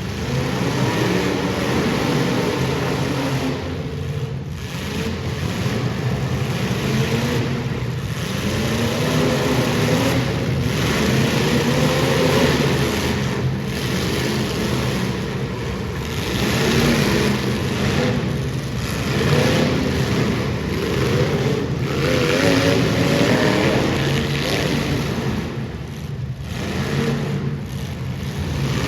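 Demolition derby car engines revving up and down over a constant din of noise.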